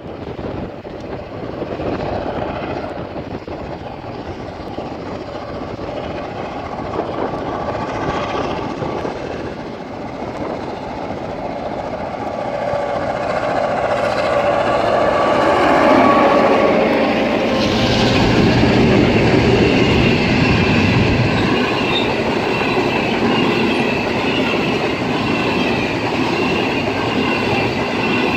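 Two GM class diesel-electric locomotives (EMD two-stroke diesels) approach and pass close by on a standard gauge freight. Their engine note grows louder to a peak about two-thirds of the way through, with a pitch dropping as they go by. Flat wagons then roll past with clattering wheels and a thin, steady high wheel squeal.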